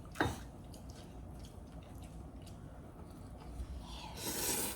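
Eating ramen up close: quiet chewing with small clicks and ticks, and a short rush of noise about four seconds in.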